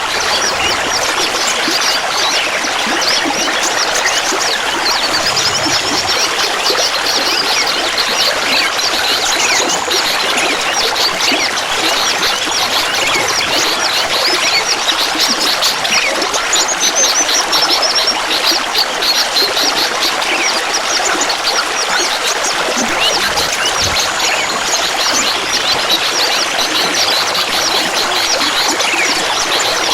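Clear water trickling and babbling steadily, a dense patter of small splashes and drips over a continuous rush.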